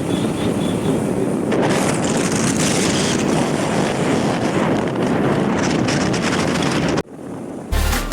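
Steady wind noise buffeting the microphone over the rumble of a moving vehicle, cutting off suddenly about seven seconds in. Music with a heavy bass beat starts near the end.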